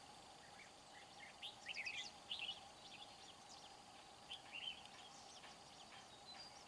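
Faint, scattered chirps of red-whiskered bulbuls, a cluster of short calls about one and a half to two and a half seconds in and a few more near the middle, over a faint steady hum.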